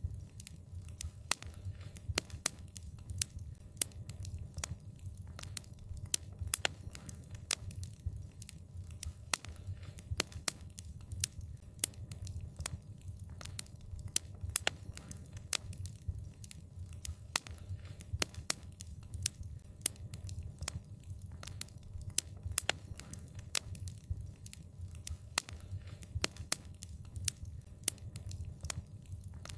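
Wood fire crackling: frequent sharp pops and snaps at irregular intervals, over a low steady rumble.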